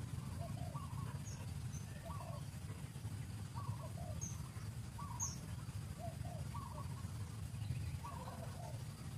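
A bird calling over and over in short chirps about once a second, with a few brief high chirps in between, over a steady low rumble.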